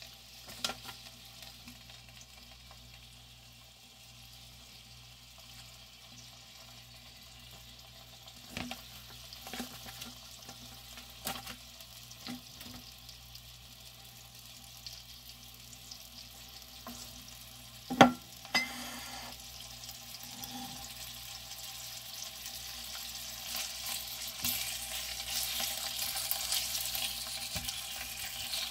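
Cocktail sausages and sliced pork frying in a pan. The sizzle starts faint and grows steadily louder over the last third as the pan heats. A few sharp pops sound through it, the loudest about 18 seconds in.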